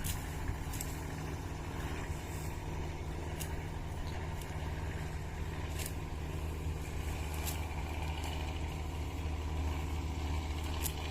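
Harvesting machine's engine running steadily at an even pace, with a few short clicks or rattles scattered through.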